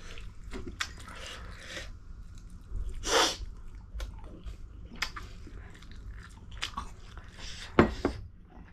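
Close-up eating sounds: chewing and biting with scattered short clicks, a longer rushing sound about three seconds in, and a sharp knock near the end.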